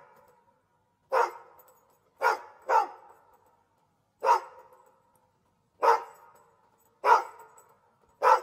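Dachshund barking: seven sharp single barks with silent gaps of about a second between them, two of them close together about two and a half seconds in. Each bark trails off in a short echo.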